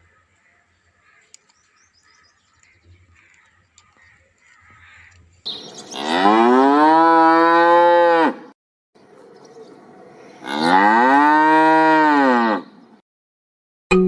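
Cattle mooing: two long, loud moos of about two to three seconds each, each rising and then falling in pitch, with a pause of about two seconds between them.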